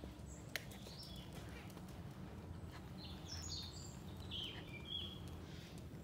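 Songbirds chirping in short, high calls, a few early on and a denser run of chirps from about three seconds in, over a steady low background rumble. A single sharp click sounds about half a second in.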